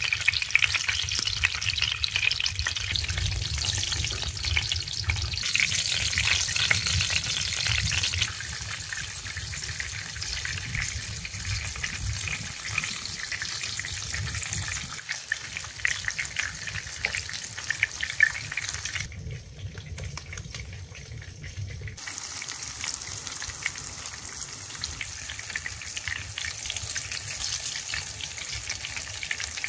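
Flour-coated fish cutlets frying in shallow hot oil in a pan, a dense crackling sizzle that is loudest for the first several seconds and then settles to a softer, steady sizzle.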